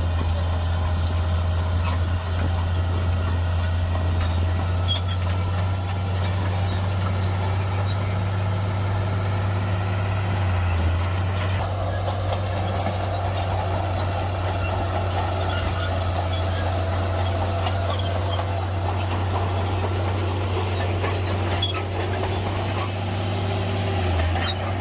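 Heavy diesel earthmoving machine running steadily with a low, even drone.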